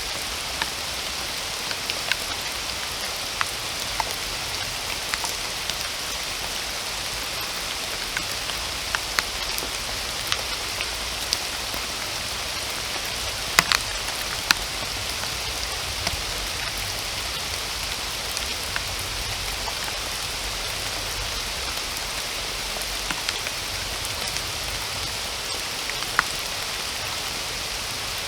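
Steady rain falling as an even hiss, with single drops ticking irregularly on top. A few louder drop impacts come around halfway through.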